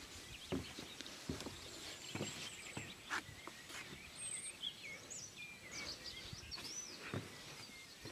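Faint outdoor ambience of small birds singing, with warbling, chirping phrases through the middle of the stretch, and scattered light knocks.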